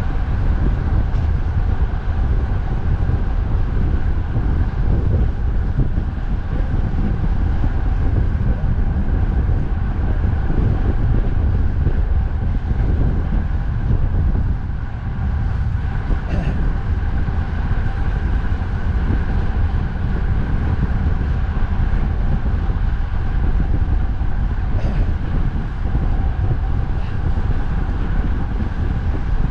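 Strong wind buffeting the microphone of a moving bicycle, a steady heavy rumble, with road traffic running underneath. The rumble dips briefly about halfway through.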